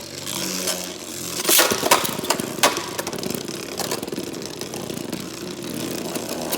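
Two Beyblade Burst spinning tops, one of them 3D-printed, whirring and scraping around a plastic stadium, with repeated sharp clacks as they collide.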